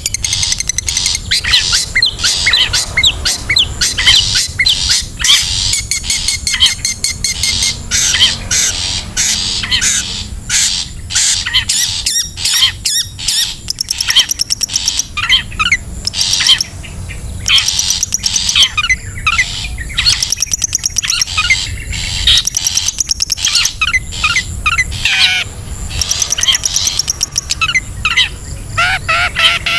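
Long-tailed shrike calling: rapid harsh chattering and squawks mixed with short high whistled notes that rise and fall, the kind of call used as a lure sound to draw in shrikes.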